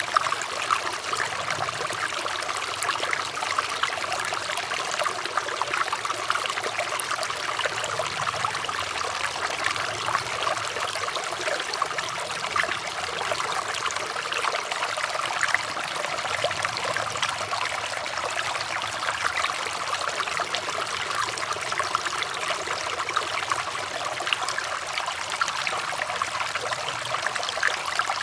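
Flowing water trickling and splashing steadily, an even, unbroken babble of many small splashes.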